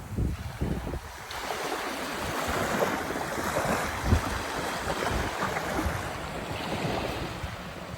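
Surf washing onto a beach, swelling and easing, with wind buffeting the microphone in low thumps.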